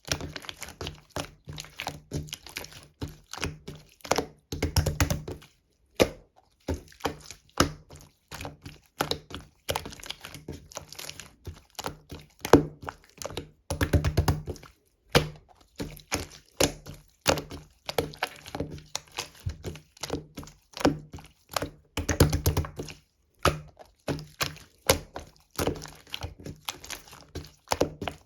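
Clear slime being pressed and squeezed by hand, giving a fast, irregular run of sticky popping clicks, denser in a few short stretches.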